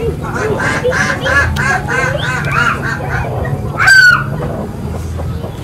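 Birds calling: a quick run of about a dozen short calls, then one loud call that falls in pitch about four seconds in.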